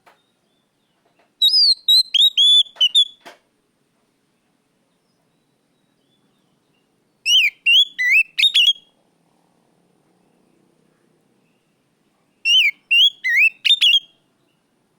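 Oriental magpie-robin (kacer) singing loud song phrases: three bursts of sweeping whistled notes with sharp clicks, each about a second and a half long, a few seconds apart.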